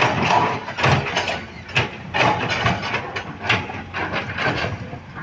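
Earthmoving machinery at work on rock and soil: a run of irregular clanks, knocks and scrapes, several a second, with no steady engine note standing out.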